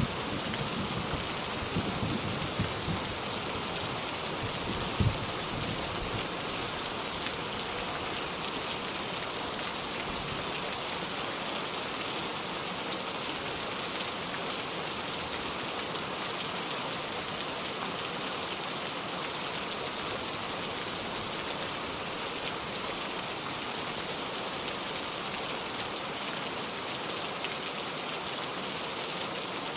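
Steady rain falling, an even hiss of many drops. A low rumble of thunder fades out over the first few seconds, and a single low thump comes about five seconds in.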